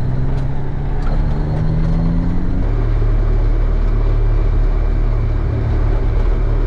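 John Deere 8970 tractor's six-cylinder diesel engine running, its pitch rising over the first couple of seconds as it speeds up, then holding steady.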